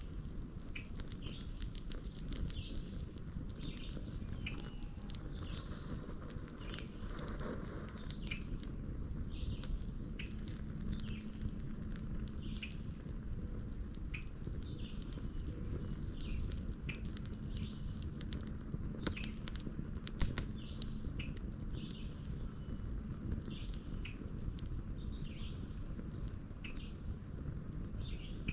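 A bird calling in short, falling chirps, repeated more than once a second, over the scattered sharp crackles of a wood fire, with one louder pop about two-thirds of the way through.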